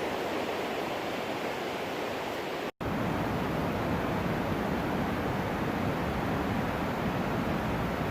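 Steady rushing of a flood-swollen mountain stream and its cascades. It breaks off for an instant about three seconds in, then carries on with a deeper rumble.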